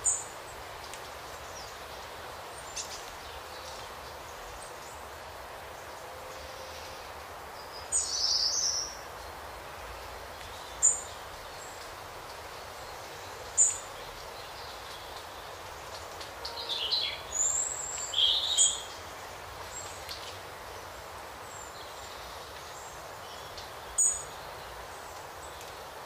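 Songbirds calling: short high chirps at intervals, with a busier run of calls about two-thirds of the way through, over a steady background hiss.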